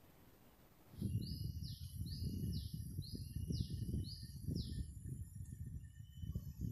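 Outdoor forest sound starting suddenly about a second in: a bird calls five times in a quick series of sweeping notes, over loud, uneven low rumbling noise and a steady very high whine.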